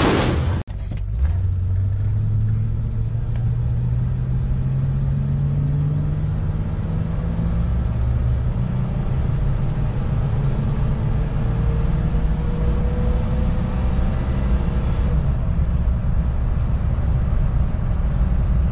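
1979 Lincoln Continental's 400 cubic inch V8, still on its two-barrel Motorcraft 2150 carburettor, accelerating slowly from a standstill. The engine note climbs gradually for about fifteen seconds, then drops at a gear change and climbs again: a sluggish 0–60 mph run of about 19 seconds. A brief burst of noise and a short dropout come right at the start.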